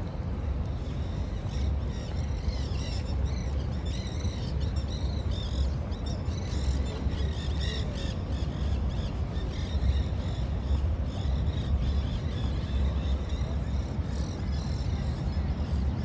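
Birds chirping in quick, scattered calls over a steady low rumble of outdoor city background noise, the calls busiest in the first half and again near the end.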